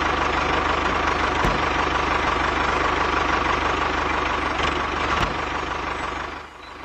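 Small engine running steadily with an even, rapid firing pulse, dropping away near the end.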